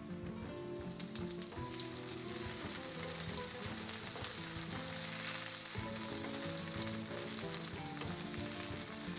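Green beans sizzling steadily in hot olive oil in a nonstick frying pan, turned now and then with a wooden spoon.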